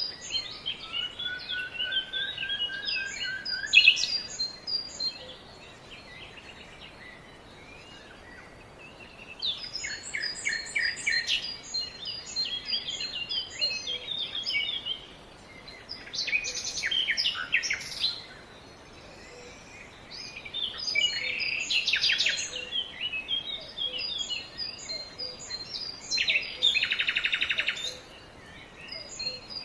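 Several birds chirping and singing in overlapping bursts of short, high calls, with quiet pauses between the bursts. A slow rising whistle runs under the chirps in the first few seconds.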